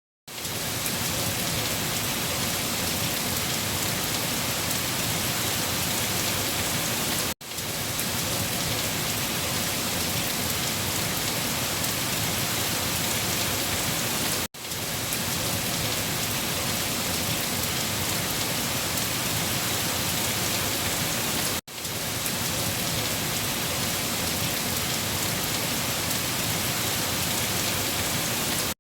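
Heavy rain falling on leaves: a dense, steady hiss that starts abruptly from silence and cuts out for a split second about every seven seconds.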